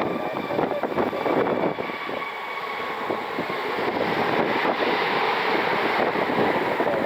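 Jet aircraft engines running with a steady whine over a broad rush, with wind buffeting the microphone.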